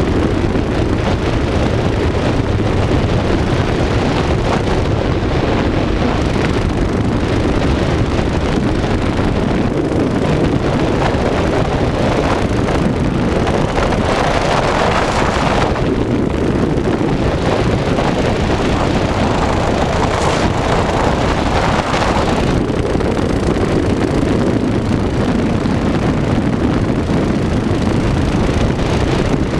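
Mini bike engine running while riding, with heavy wind buffeting on the microphone, swelling a couple of times midway.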